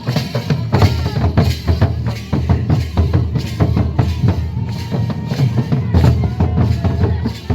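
Folk drums beating a quick, steady rhythm to accompany Jhumar dancing.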